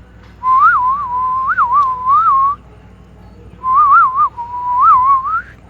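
A person whistling two short wavering phrases, a single clear whistled tone that rises and dips in pitch, with a pause of about a second between the phrases.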